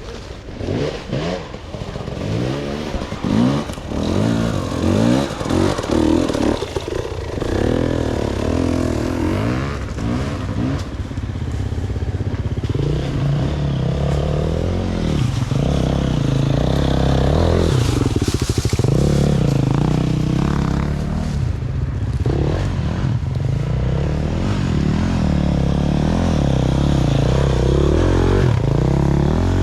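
Dirt bike engines running and revving, the pitch rising and falling quickly for the first dozen seconds, then settling into a steadier running note.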